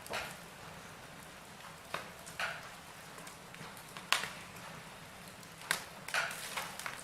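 Wood fire burning in a fireplace: a soft steady hiss with scattered sharp crackles and pops from the burning logs, the loudest pop just after four seconds and a cluster near the end.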